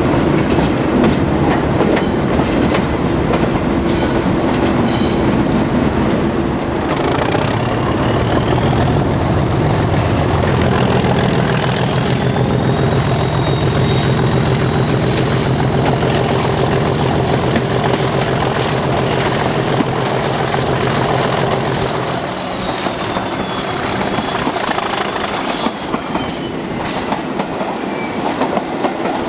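Class 37 diesel-electric locomotive's English Electric V12 engine working, with wheels clicking over rail joints. The engine note strengthens about a quarter of the way in, together with a rising high whistle that holds and then falls away as the engine eases off after about two-thirds.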